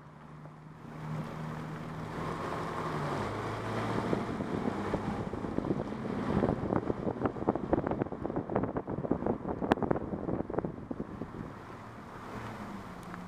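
2008 Subaru Outback running at low speed with a dense, irregular run of clicks and clunks over a steady engine hum, the noise that shows up on tight, slow turns. The hum drops in pitch about three seconds in, and the clicking builds from about four seconds in and thins out near the end.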